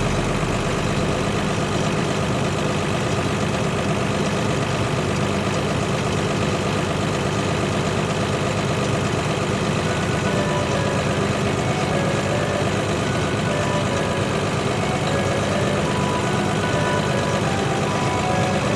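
Diesel engine of a large farm machine running steadily under harvest work, a constant mechanical drone with no changes in pitch.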